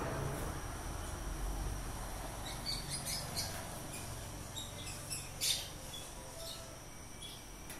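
Small birds chirping in short, irregular calls, the loudest about five and a half seconds in, over a faint steady high-pitched tone.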